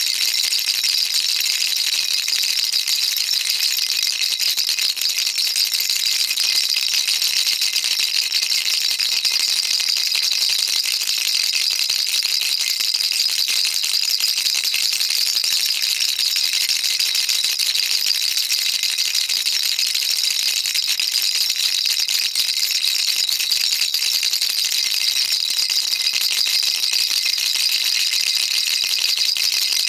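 Baby rattle shaken continuously: a steady, dense, high-pitched patter of small beads inside the toy, with no pauses.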